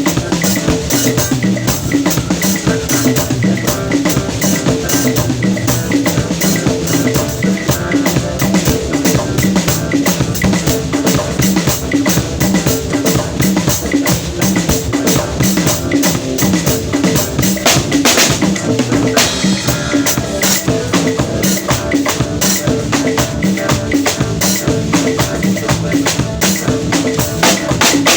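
Drum kit being played continuously in a dense, busy rhythm, with bass drum and snare strokes throughout.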